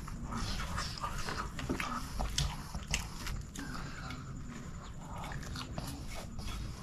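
Close-miked mouth sounds of someone chewing a mouthful of chicken biryani: wet smacks and clicks at irregular intervals.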